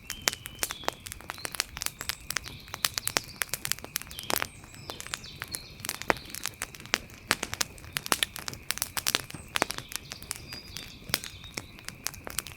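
Wood fire crackling, with dense, irregular sharp pops, over a steady high-pitched drone and a few short high chirps.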